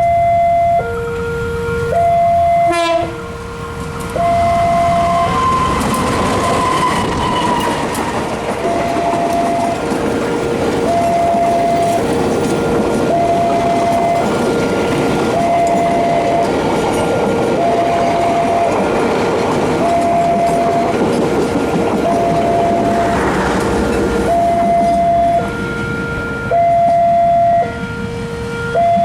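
A train passes with its wheels clattering, and its horn sounds a few seconds in, falling in pitch as the train goes by. Throughout, a level-crossing alarm alternates between a high and a low tone about once a second.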